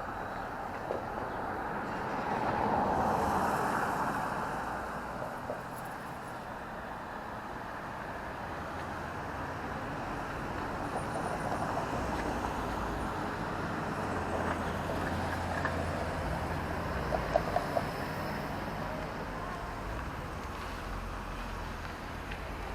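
City traffic noise: a steady road hum, with a vehicle passing by about three seconds in and a quick run of clicks in the second half.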